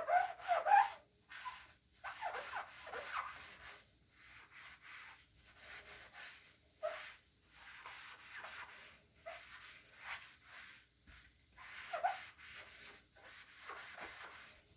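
Cleaning being rubbed over a surface in strokes, squeaking. It starts with loud squeaks in the first second, then goes on in softer, irregular rubbing strokes, with another squeak about twelve seconds in.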